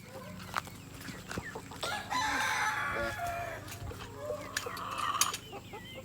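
Flock of chickens clucking and squawking, with a rooster crowing and a few sharp clicks.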